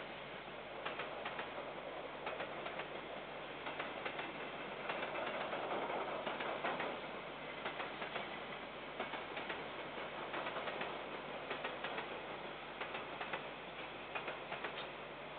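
KiwiRail train wagons rolling along the track: a steady rolling rush with a stream of irregular wheel clicks over the rails, swelling about halfway through and then easing off.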